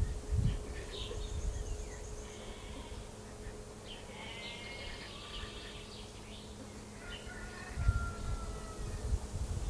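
Small birds chirping and twittering in short repeated calls and trills, with one thin whistled note about eight seconds in. Low thumps or rumbles come about half a second and eight seconds in.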